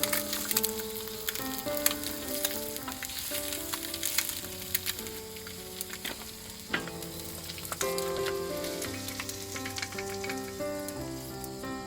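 Steady sizzling and crackling with frequent sharp pops, under background music carrying a melody of held notes.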